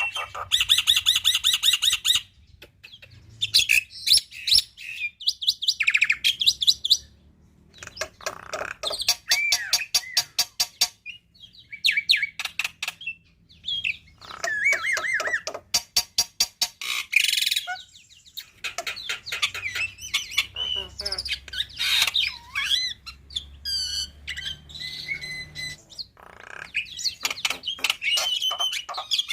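Black-winged myna (jalak putih) singing a varied full song of rapid rattling trills, chattering notes and whistled glides, laced with mimicked calls of other birds. It comes in bursts with short pauses between them.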